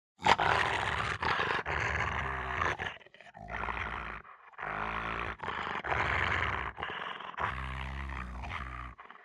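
Dog growling in several rough bouts of one to two seconds each, separated by brief breaks.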